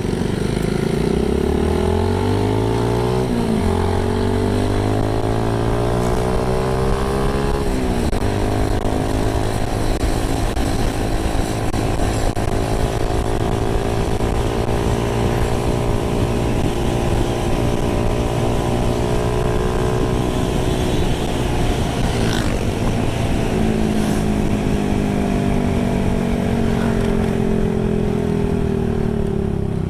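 Yamaha Vega Force Fi 115 motorcycle's single-cylinder engine pulling away and accelerating, its pitch climbing and dropping sharply twice as it shifts up through the gears. It then cruises at a fairly steady pitch and eases off, the pitch slowly falling, near the end.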